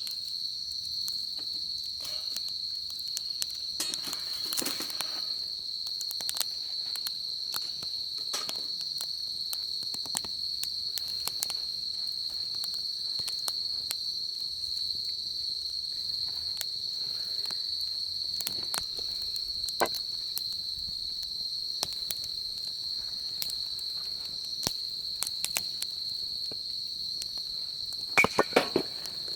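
Wood fire crackling, with scattered sharp pops and a quick run of loud snaps near the end. Behind it, a steady high-pitched insect chorus trills without a break.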